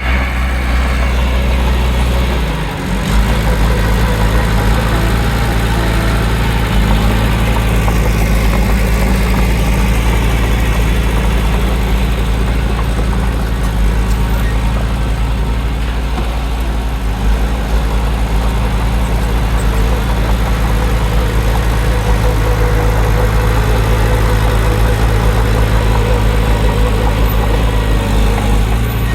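Heavy diesel engine of earthmoving machinery running steadily with a loud, continuous low drone.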